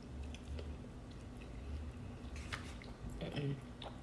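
Mouth sounds of chewing a bite of soft flour-tortilla chicken taco: faint wet clicks and smacks, with a brief murmur a little after three seconds in.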